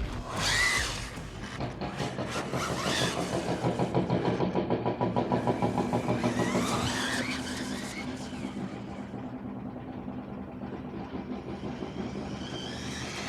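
A 1/12-scale brushless electric RC buggy driving, its motor whining up and down in pitch as it speeds up and slows.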